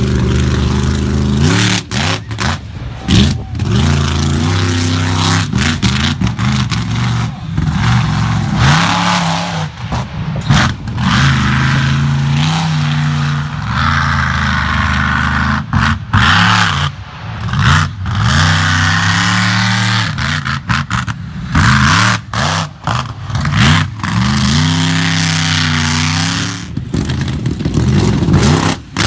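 Loud monster truck engine revving hard, its pitch climbing and falling again and again as the throttle is worked.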